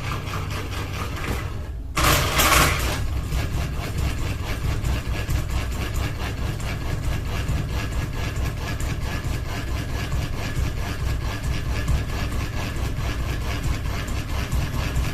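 Ceiling fan running with one wobbling, unbalanced blade: a steady low hum with a fast, even, repeating rattle. Near two seconds in the sound drops out for a moment, then comes back with a brief louder rush.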